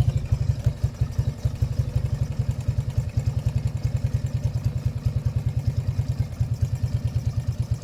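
Yamaha Raptor 80 ATV's small single-cylinder four-stroke engine idling warm with an even, quick putter, its new aftermarket carburetor's idle screw set at a turn and three-quarters while the idle is being tuned.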